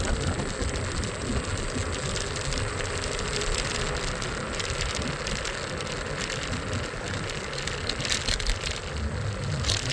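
Street traffic heard from a moving scooter: a steady mix of engine rumble and road noise, with a few sharp clicks or knocks near the end.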